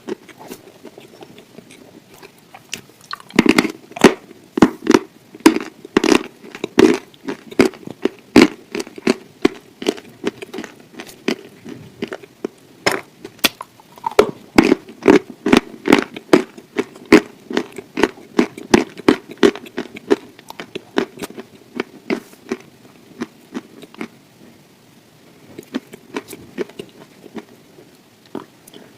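Close-miked chewing and biting of grilled chicken: a long run of sharp clicks, close together from about three seconds in, thinning out for a few seconds about three quarters of the way through.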